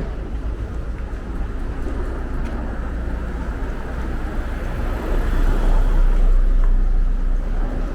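Street traffic: motor vehicles running by, a steady rumble and road noise that grows louder about five seconds in and eases off near the end.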